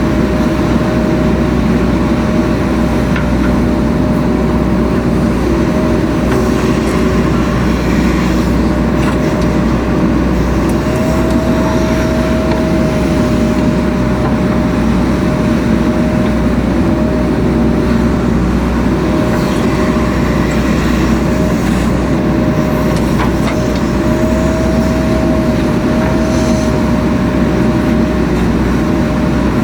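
The diesel engine of a JCB 3DX Super backhoe loader runs steadily under working load, with a steady whine over it that rises slightly a couple of times.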